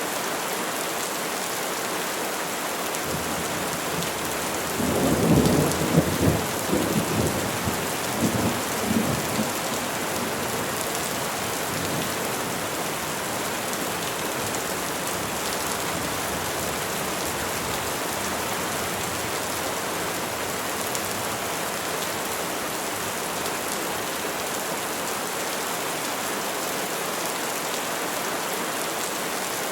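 Steady rain falling on trees, with a rumble of thunder about five seconds in that dies away over a few seconds.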